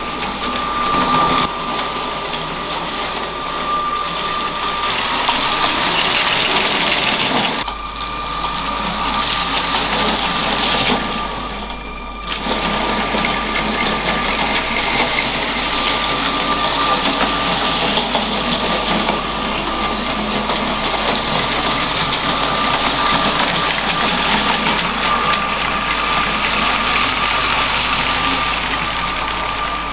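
Motorised LEGO train running on plastic track: a steady electric-motor whine over a constant rattle of wheels and gears, briefly quieter twice, about 8 and 12 seconds in.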